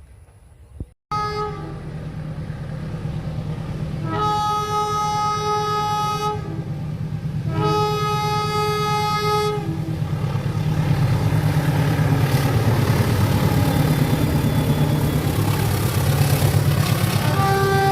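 A train's diesel locomotive horn sounds two long chord blasts of about two seconds each over the rumble of the approaching train, which grows louder, and a third blast starts near the end. The sound comes in suddenly about a second in.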